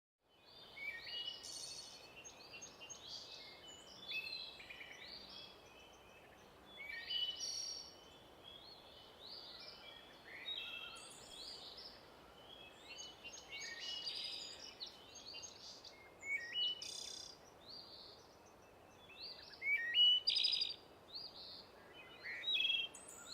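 Several small songbirds singing and chirping, short varied trills and calls overlapping throughout, over a faint steady background hiss.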